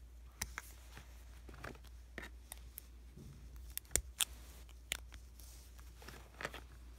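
Paper stickers being handled on a diary page: sharp crackles and taps of stickers peeled off their backing sheet and pressed down, loudest about four seconds in.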